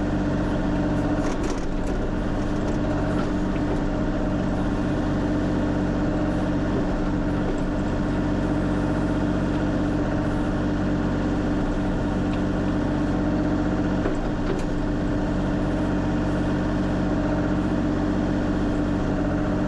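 Kubota KX040 mini excavator's diesel engine running steadily, with a few faint clicks about a second and a half in and again near the end.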